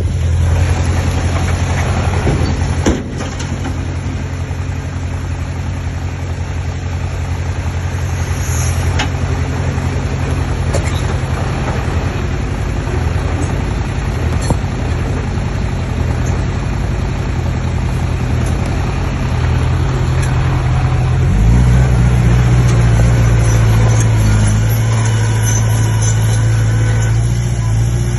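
Komatsu D20P bulldozer's diesel engine running steadily, with a single sharp knock about three seconds in. About two-thirds of the way through, the engine note shifts and gets louder.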